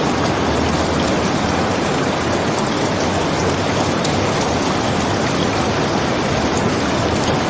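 Steady heavy rain: a dense, even hiss with a few faint ticks scattered through it.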